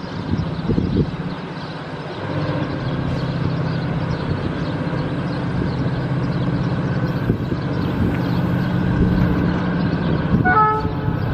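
Railway train's engine running with a steady low drone that grows louder about two seconds in; a short horn toot sounds near the end.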